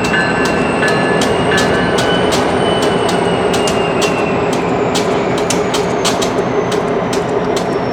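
Freight cars rolling through a rail yard: steel wheels click repeatedly over rail joints while thin, high wheel squeals rise and fall over a steady rumble.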